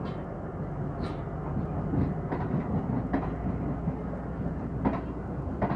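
Pakistan Railways passenger coaches rolling past as the train departs: a steady low rumble of wheels on track with irregular clicks and clanks, a few of them sharper, about a second in, around two to three seconds and near the end.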